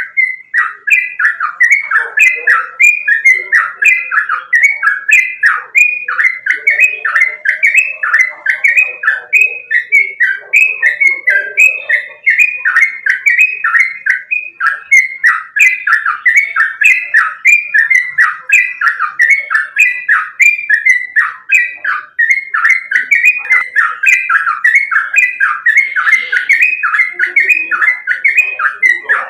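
Yellow-vented bulbul (trucukan) singing in a rapid, unbroken string of loud, quickly slurred notes, about three a second.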